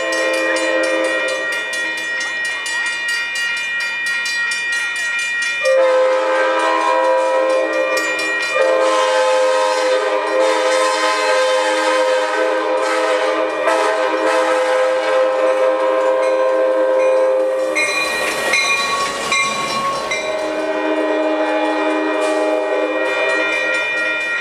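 EMD F59PHI diesel locomotive's horn sounding long chords as the engine crawls along: briefly at the start, a blast held about twelve seconds from about six seconds in, and again near the end, over a steady high whine from the locomotive.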